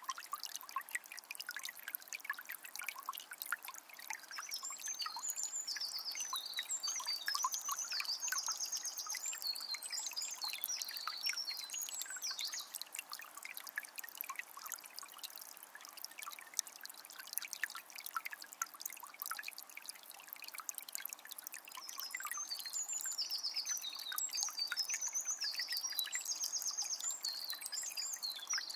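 Forest river trickling and splashing over stones, a steady wash full of small splashes. A songbird sings a long series of quick, high phrases with trills over it about four seconds in, then again from about twenty-two seconds in.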